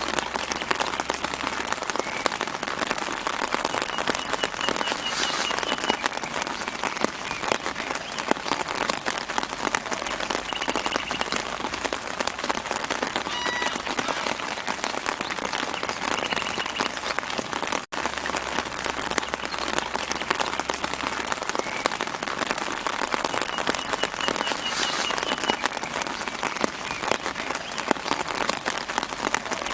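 Steady light rain pattering on leaves and ground, a dense hiss of fine drops, with a small bird's short trill sounding faintly every few seconds in the background. The rain cuts out for an instant about 18 seconds in.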